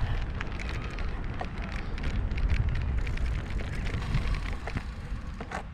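Wind buffeting the microphone during a bike ride: a steady low rumble, broken by many short crackles and clicks.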